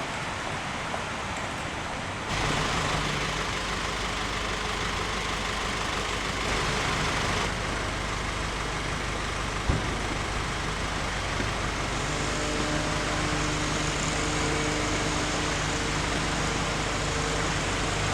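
Road traffic on rain-wet streets: a steady hiss of tyres on wet pavement with the low engine rumble of passing cars and trucks. The sound shifts abruptly about two seconds in, a single thump comes about ten seconds in, and engine hum grows clearer in the latter half.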